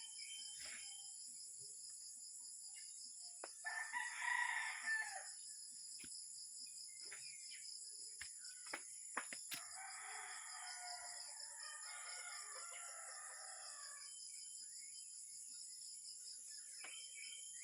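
A rooster crowing twice, first about four seconds in, then in a longer call from about ten seconds in, over a steady high-pitched buzzing.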